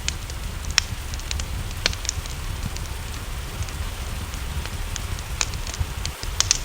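Wood fire crackling, with sharp pops at irregular moments, over steady rain and a low rumble.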